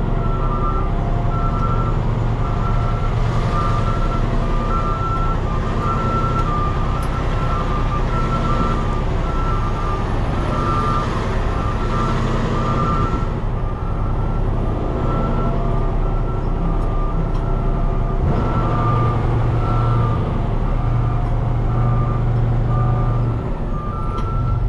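Heavy diesel dump truck engine running steadily, with a backup alarm giving short repeated beeps throughout.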